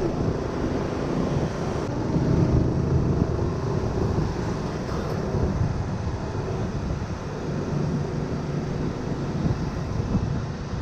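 Honda Winner 150 motorbike's single-cylinder engine running steadily while riding, mixed with wind and road noise on the microphone.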